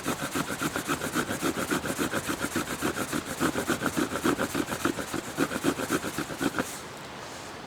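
Sawback spine of a tracker knife being worked back and forth across a wooden branch in quick, even strokes, stopping shortly before the end.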